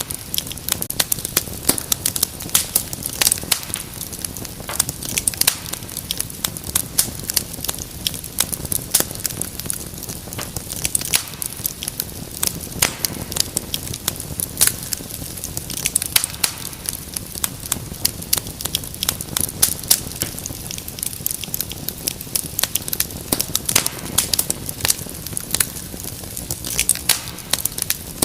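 Wood fire crackling in a fireplace: a continuous run of sharp, irregular snaps and pops over a steady low rustle of burning.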